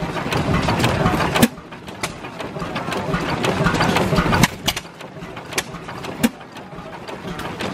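Hit-and-miss stationary engines running with a steady mechanical clatter and sharp pops at uneven intervals, a second or more apart: the engines fire only now and then as the governor holds their speed.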